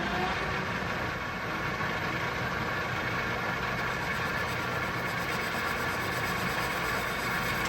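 Metal lathe running at a steady speed while a chamfer is cut on the edge of a bored and threaded steel hole. It holds an even mechanical hum and hiss.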